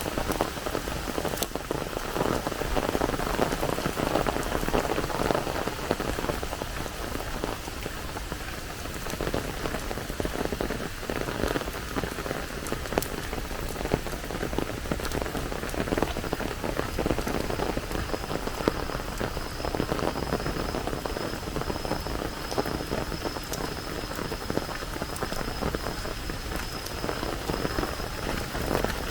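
Steady rain falling, a dense patter of drops hitting surfaces. About halfway through, a faint steady high-pitched tone joins it.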